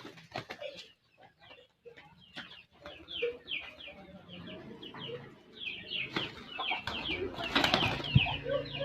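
Pigeons feeding, with pecking clicks and a loud flurry of wing flaps about seven seconds in, over quick, repeated high chirps from small birds.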